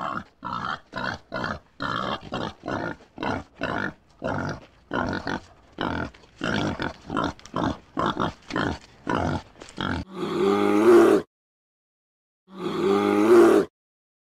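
Boar grunting in a quick series, about two to three short grunts a second, for some ten seconds, followed by two louder, long calls with a wavering pitch.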